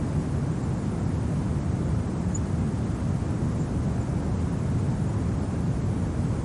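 Steady low wind rumble of a winter ambience, even throughout with no gusts or distinct events.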